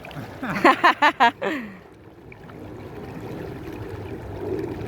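A child's high voice squealing in several quick cries about half a second in, over the steady rush of a shallow, fast-flowing stream.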